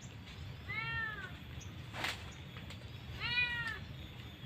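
A cat meowing twice, each meow about half a second long and rising then falling in pitch, with a single sharp click between the two meows.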